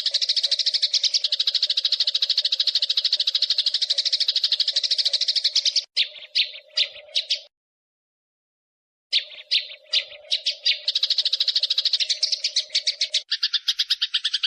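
Eurasian tree sparrow giving its fast, rolling 'fighting' chatter: a dense stream of rapid, evenly repeated high chirps. About six seconds in the chatter breaks into a few separate chirps and stops dead for about a second and a half. It then picks up again and, near the end, changes to a lower, coarser chatter.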